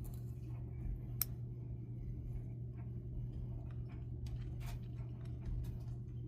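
Faint scattered clicks and taps of small parts and hand tools being handled, over a steady low hum; one sharper click about a second in.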